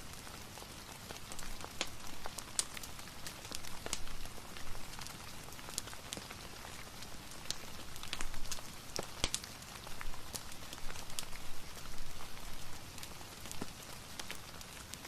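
Steady rain hiss mixed with a crackling fire, its scattered sharp pops coming irregularly throughout.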